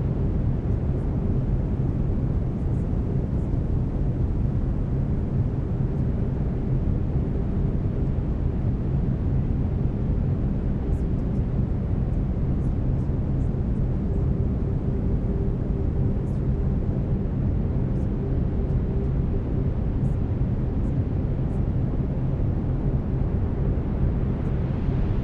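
Steady brown noise: an even, deep rushing hiss, heaviest in the bass, with a faint steady tone running underneath.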